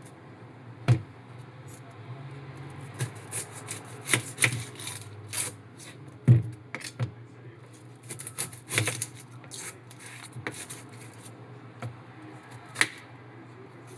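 Kitchen preparation sounds: irregular clicks, taps and light knocks of utensils and food being handled, with two heavier knocks about a second in and just past six seconds, over a steady low hum.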